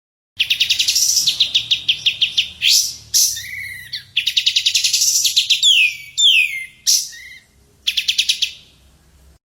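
Caged songbird singing: fast rattling trills of rapidly repeated high notes, broken around the middle by a few sharp downward-slurred whistles. The song is a recorded track used to teach other birds.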